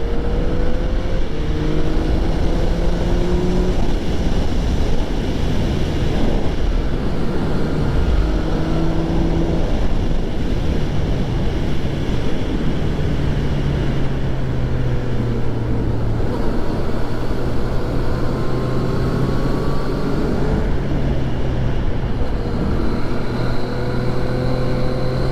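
Yamaha FZ-09 motorcycle's inline-three engine running while riding at speed, its pitch rising and falling with the throttle. A loud, dense rush of wind and road noise lies over it.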